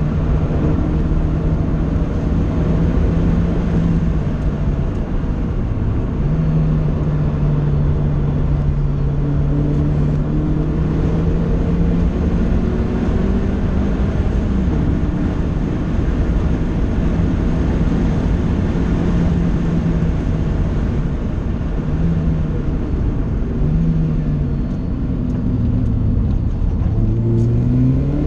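Vauxhall VX220 Turbo's turbocharged four-cylinder engine heard from inside the cabin, driven hard on track. The revs hold high, dip about five seconds in and climb again, fall and pick up several times in the middle, and rise as it accelerates near the end. Tyre and wind noise run underneath.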